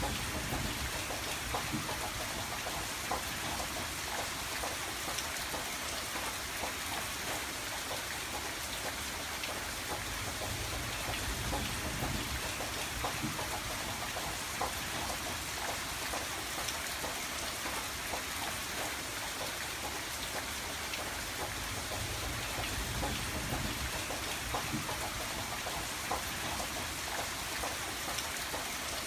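Steady rain falling on a window, with many small drops pattering against the glass over a soft low rumble that swells and fades.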